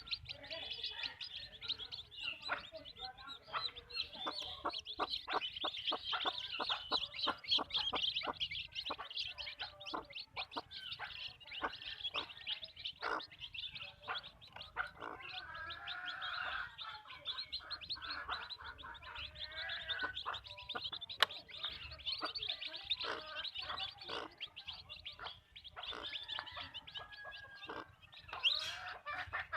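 Backyard hens clucking and calling, with many short sharp clicks throughout.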